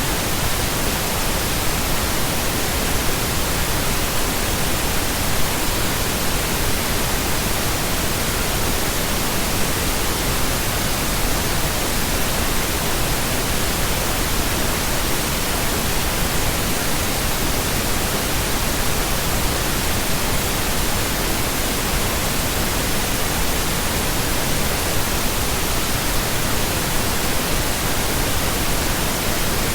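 Steady synthetic pink noise: an even hiss spread across all frequencies, with no change in level.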